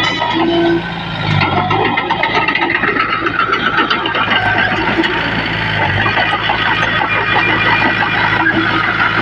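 Komatsu D20P bulldozer's diesel engine running steadily while pushing soil, with a dense rattling clatter over the engine note.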